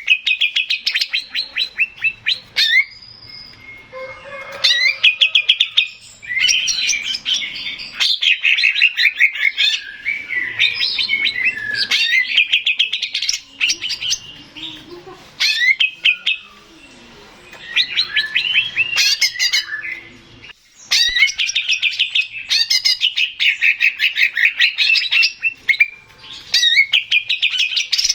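Male cucak ijo (green leafbird) singing: bouts of fast, chattering runs of high, repeated notes, each bout a few seconds long, broken by short pauses.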